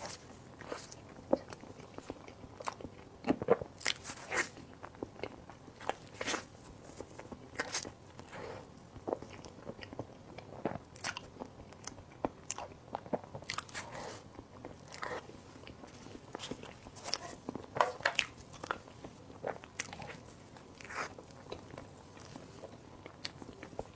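Close-miked eating: a person biting and chewing soft desserts, with irregular sharp clicks from the mouth about once or twice a second.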